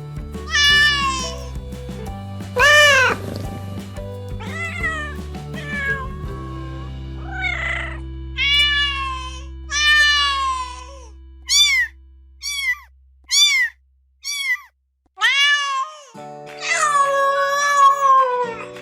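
Domestic cats meowing over and over, each call rising and falling in pitch, with a quick run of five short meows about a second apart in the middle. Background music with held low notes plays under the meows at the start and again near the end.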